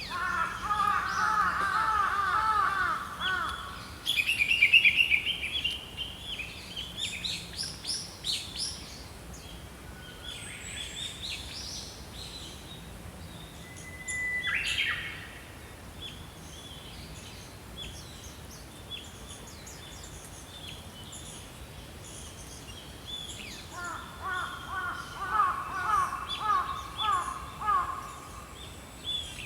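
Small songbirds singing. A rapid warbling phrase opens the sound and returns near the end, with higher trills and scattered chirps between them.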